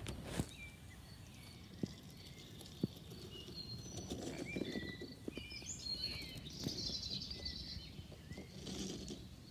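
Birds chirping and calling faintly over a low, steady outdoor background noise, the calls clustering in the middle, with two brief light clicks near the start.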